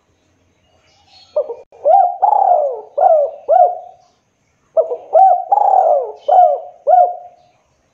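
Spotted dove (tekukur) cooing loudly in two phrases of about five notes each, every coo swooping up and back down. The second phrase begins about halfway through.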